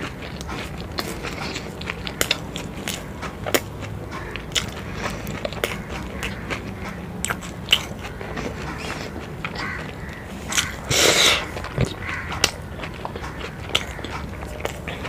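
Close-miked eating: a person chewing a mouthful of fried boiled egg with curry, with many short wet mouth clicks and smacks. A louder noise lasting about a second comes roughly two-thirds of the way through.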